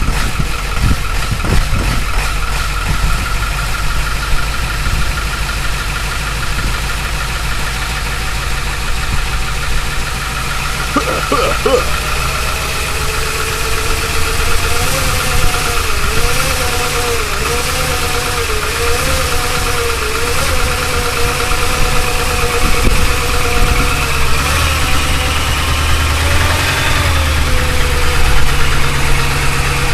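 Ford 7.3 L Power Stroke V8 turbodiesel idling steadily just after a cold start at 22°F on summer fuel. A faint wavering whistle comes and goes about halfway through.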